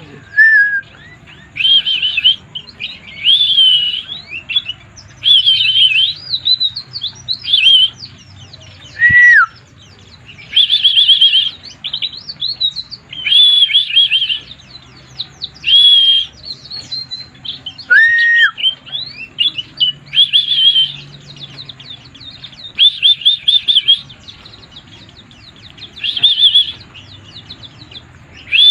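White-eye (pleci) singing in repeated short bursts of fast, high chirping trills, about one burst every two seconds, with a lower downward-sliding note twice. This is the bird in 'mabuk' song, the nonstop, frenzied singing that white-eye keepers prize.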